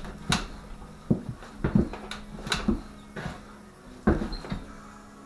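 About ten irregular knocks and metal clanks from work on a dirt bike's rear shock and its spring adjuster.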